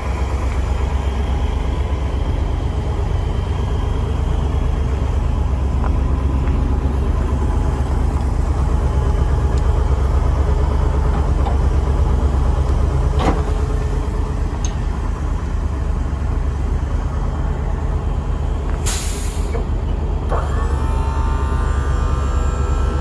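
1987 Chevrolet flatbed truck's engine running steadily with a deep, even rumble. A single click sounds midway, a short hiss comes about three-quarters of the way through, and then a steady whine joins in until the end.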